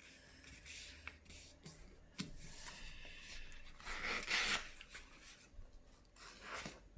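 A sheet of paper rustling and rubbing as it is folded corner to corner and creased by hand, in irregular scrapes, loudest about four seconds in.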